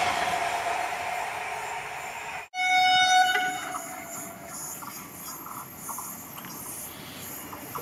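Passenger train coaches rolling past close by, their noise fading as the tail of the train goes by. After a short break, a train horn sounds one steady high note for about a second, then faint rail noise of an approaching train.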